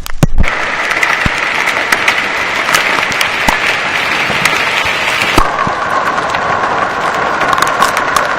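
Hail and heavy rain pelting down: a dense, steady hiss of impacts with many sharp clicks of single hailstones striking. It sets in suddenly about half a second in, and its pitch drops about five and a half seconds in.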